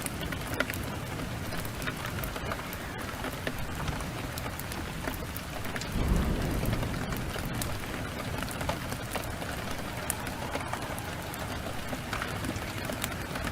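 Steady downpour of heavy rain with sharp crackles from a wood fire scattered throughout. About six seconds in, a low rumble of thunder swells briefly and is the loudest sound.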